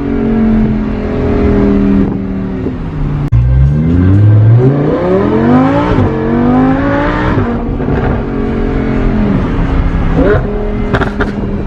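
Lamborghini Huracan LP580-2's V10 through an ARMYTRIX titanium exhaust, accelerating hard. Its pitch climbs, drops sharply at an upshift about six seconds in, and climbs again, then settles to a steady cruise. A few sharp cracks come near the end.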